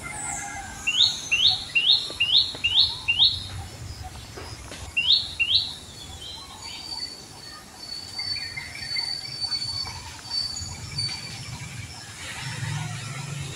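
A bird calling in a run of six quick, sweeping high whistled notes, then two more a couple of seconds later. A thin, high, steady note follows in broken stretches, and faint rustling ambience runs underneath.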